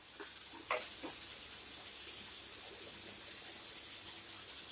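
Onion-tomato masala with peas sizzling in a non-stick kadai as a wooden spatula stirs it: a steady sizzling hiss with a few light scrapes of the spatula.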